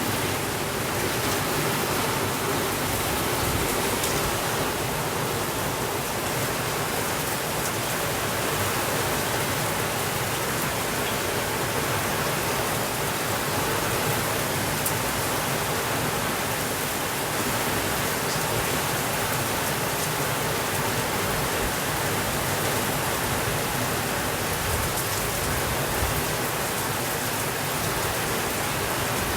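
Steady rainfall: an even, unbroken hiss of rain with faint scattered ticks.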